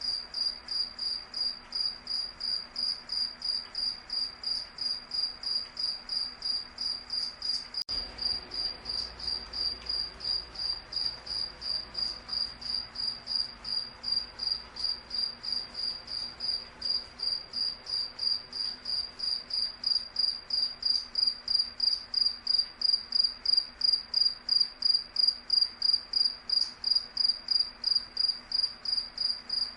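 A cricket chirping: an evenly repeated high-pitched chirp, about three a second, with no pauses. It gets somewhat louder in the second half.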